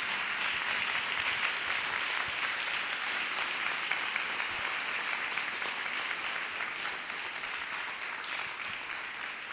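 Congregation applauding, the clapping slowly dying down.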